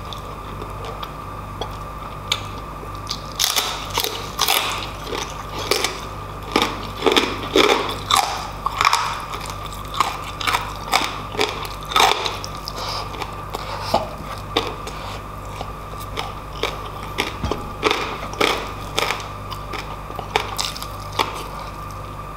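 Close-miked eating sounds of a man chewing lechon pork belly and rice eaten by hand: dense crackly bites and chewing from about three seconds in to around thirteen, then slower, sparser chewing. A steady hum runs underneath.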